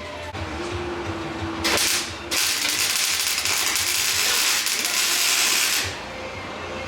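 MIG welder laying short welds on the truck's sheet metal: a brief crackling hiss, then a longer steady one of about three and a half seconds that stops abruptly.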